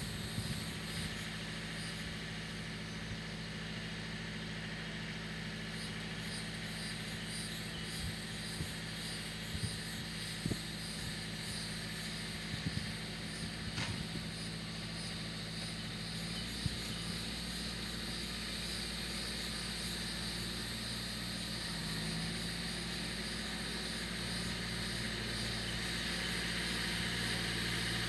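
Engine idling steadily, with a few light knocks and clunks, growing slightly louder near the end.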